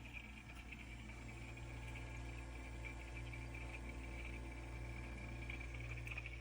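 Setpower AJ30 portable compressor fridge running: a steady low hum with a fluttering high whine over it, the constant noise that makes this cooler not a quiet one.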